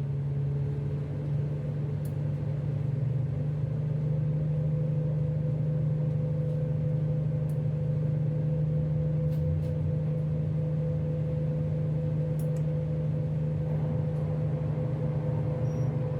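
Tugboat's diesel engines running steadily, a constant low drone with a steady hum above it.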